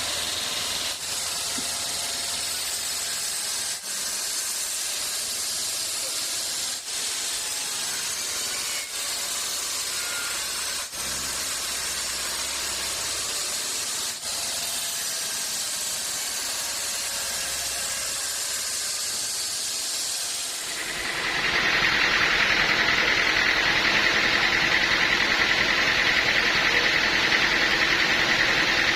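Sawmill machinery running with a steady hiss, broken by brief dips every two to three seconds. About three-quarters of the way through it grows louder and takes on a steady high whine.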